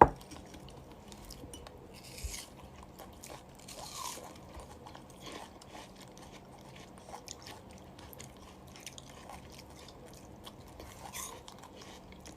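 Faint, scattered crunching, with a sharp click right at the start.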